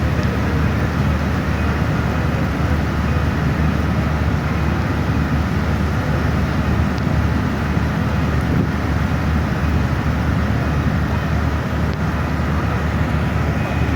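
Steady rumbling running noise of a moving passenger train, with an even hiss over it.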